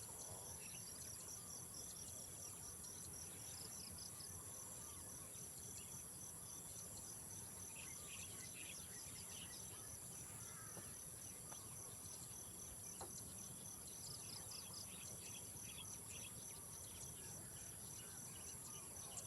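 Faint insect chorus: a steady high-pitched buzz with a fast, evenly pulsing trill over it, and short scattered chirps coming and going.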